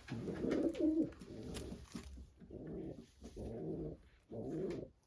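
Racing pigeons cooing: a series of about five low coos, each under a second long.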